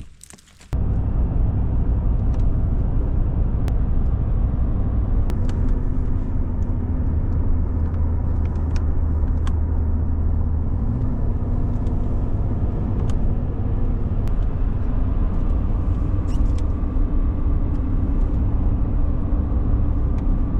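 A car driving along the road, heard from inside the cabin: a steady low rumble of engine and tyres. It starts suddenly just under a second in, with a few faint clicks over it.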